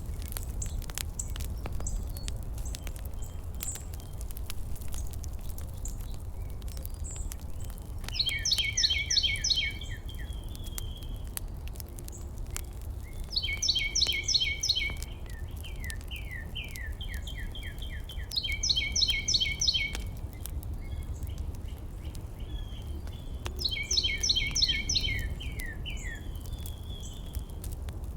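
A songbird singing the same short song four times, about every five seconds. Each song is a quick series of rapid repeated notes, sometimes trailing into a few falling notes, over a steady low rumble.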